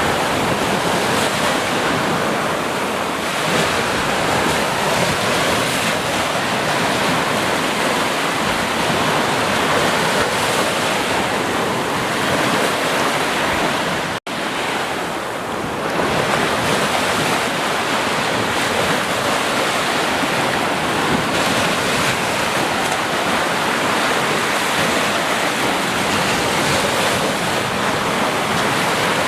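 Steady rushing water, an even wash of noise like surf or a waterfall, with a split-second break about halfway through.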